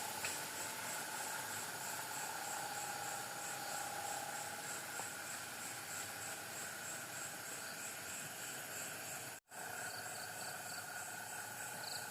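Night insects, crickets among them, chirring steadily in a dense chorus, with a rapid, even pulsing high chirp over a continuous hiss. The sound drops out completely for a split second about nine seconds in.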